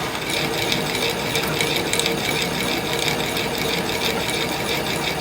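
A workshop machine running steadily with a fast, even rattle.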